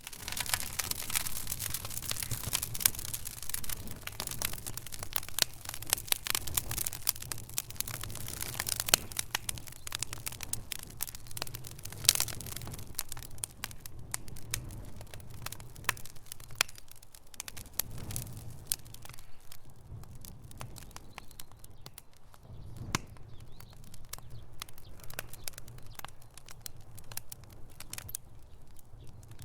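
Wood fire crackling in a fireplace: a dense run of small irregular pops and snaps over a steady low rumble. The pops are thickest in the first third, and there is one sharp, louder crack about twelve seconds in.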